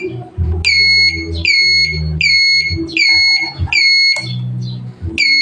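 Turn-signal relay buzzer on a Yamaha Mio Sporty scooter beeping with each blink of the turn signals: a high electronic beep repeating about every three-quarters of a second, with a short pause near the end. The beep shows the signal is switched on and flashing.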